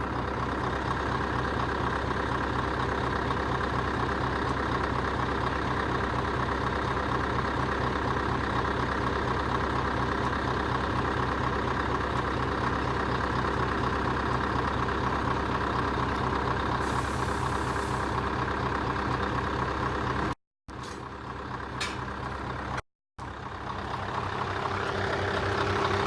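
Scania truck's diesel engine running steadily at an even speed, with a brief hiss of air partway through.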